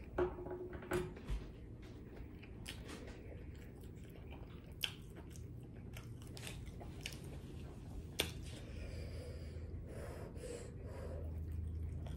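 A person chewing a mouthful of boneless buffalo wings and seasoned fries close to the microphone, with a handful of sharp clicks from the mouth, the loudest in the first second and a half.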